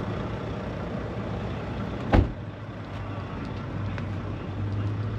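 A car engine idling steadily, with one sharp knock about two seconds in.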